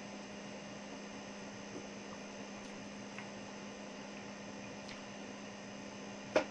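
Steady low electrical hum in the room, with a few faint ticks and one sharp click near the end.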